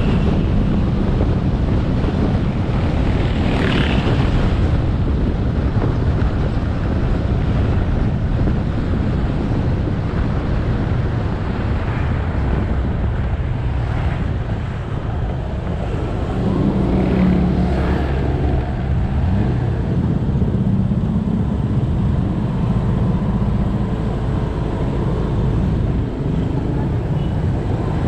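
Motorcycle engine running while riding, under a steady rush of wind and road noise on the mounted camera's microphone. The engine hum grows stronger for several seconds past the middle.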